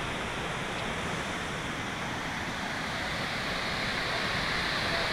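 Waterfall: a steady rush of falling water, growing a little louder and brighter toward the end.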